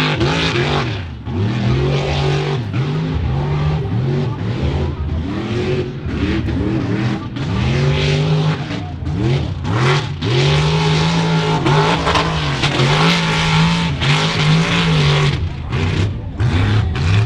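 Mud truck's engine revving hard over and over, its pitch climbing and falling every second or so, with bursts of rushing noise in between.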